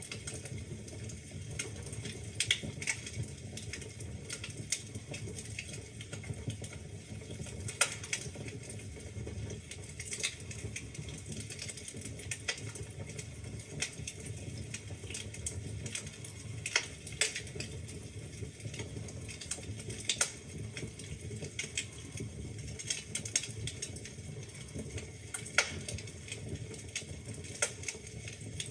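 Wood fire burning in a fireplace: a steady low rumble of the flames with irregular sharp crackles and pops from the burning logs, a few of them loud.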